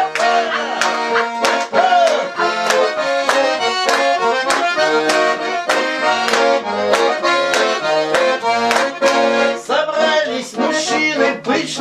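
Bayan (Russian button accordion) playing a lively instrumental folk tune in chords with a steady, even beat.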